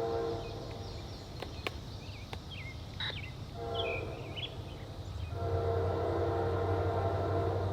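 Locomotive air horn sounding a chord: a long blast ends just after the start, a short blast follows a few seconds later, and another long blast begins near the end, the pattern of a grade-crossing signal. A low engine rumble runs under it, and birds chirp in the gap between blasts.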